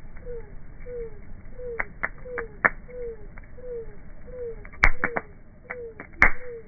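Bonfire crackling, in slowed playback, with scattered sharp pops from the burning wood and two loud snaps near the end. Under it, a short falling call repeats steadily, about one and a half times a second.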